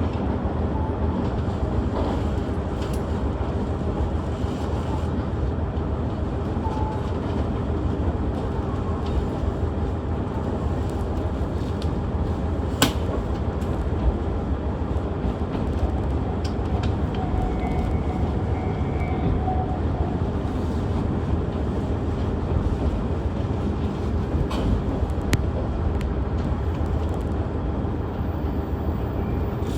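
KiHa 110 series diesel railcar running along the line, heard from aboard: a steady rumble of engine and wheels on rail with a low hum. A few sharp clicks stand out, the clearest about halfway through.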